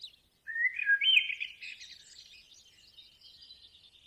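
Birds chirping and singing: a loud run of high, quick chirps starting about half a second in, then steadier high twittering.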